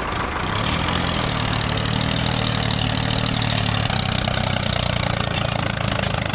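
Tractor engine idling steadily, its low hum firming up about half a second in, with a few faint clicks over it.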